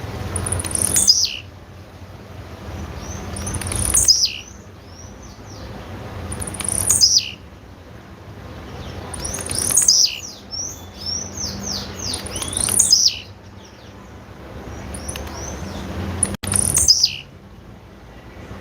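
Blue-black grassquit (tiziu) giving a short, high call that sweeps steeply downward, repeated about every three seconds, six times. A rushing noise swells before each call and stops as it sounds. A cluster of smaller, quick downward notes comes between the fourth and fifth calls. The recording is labelled as the female's call.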